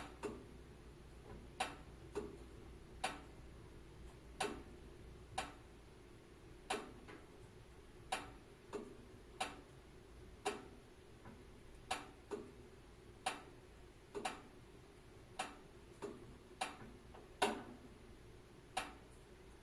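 Wood fire crackling: irregular sharp pops and snaps, roughly one a second, over a faint steady background.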